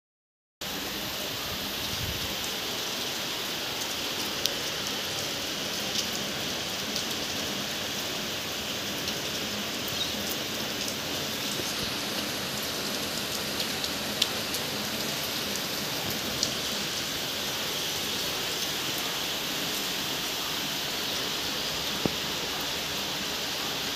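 Heavy rain falling steadily in a dense, even hiss. A few louder drops tap sharply now and then.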